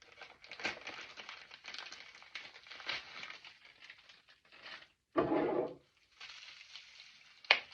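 Plastic packaging bag crinkling and crackling as it is handled and torn open, with irregular crisp ticks. About five seconds in there is a short, louder pitched sound, then fainter crinkling and a sharp click near the end.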